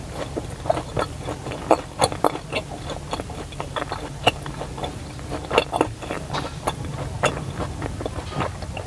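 A person chewing a round sesame-flour dessert with a coconut filling, close to the microphone: many short, irregular mouth clicks and smacks.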